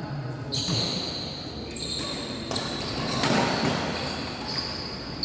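Badminton rally: sharp strikes of rackets on a shuttlecock, about one a second.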